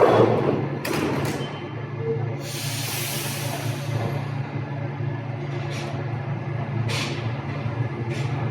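Paris Métro train at a station platform: a steady low electrical hum with a loud rumble at the start, sharp clicks and knocks, and a burst of compressed-air hiss lasting about a second and a half, a couple of seconds in.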